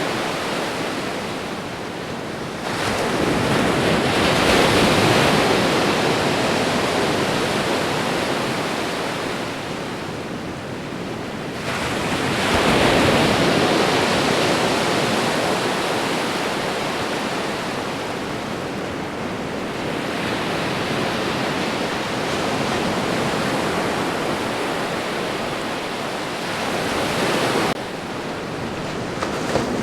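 Ocean waves breaking and washing ashore in a continuous rush of surf, swelling louder as a wave breaks about three seconds in and again about twelve seconds in.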